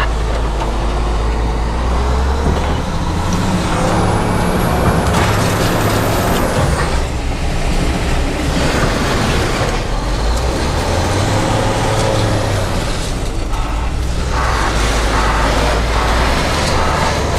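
Large diesel engine running, revving up twice with a high whine that climbs and falls, over a rushing hiss.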